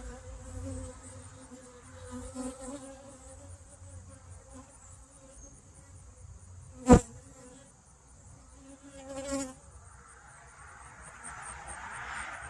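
Honeybees buzzing around an open hive, the hum swelling and fading as bees fly close to the microphone. A single sharp click about seven seconds in.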